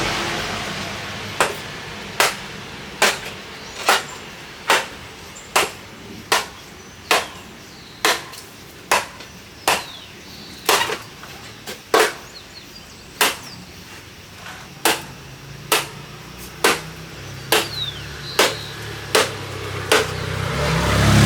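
A steady series of sharp, hard strikes from a tool, a little more than one a second. Faint bird chirps sound between them, and a motor-vehicle rumble builds near the end.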